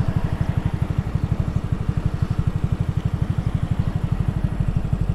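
Honda Grom's single-cylinder four-stroke engine idling at a stop, an even low putter of about eleven or twelve beats a second.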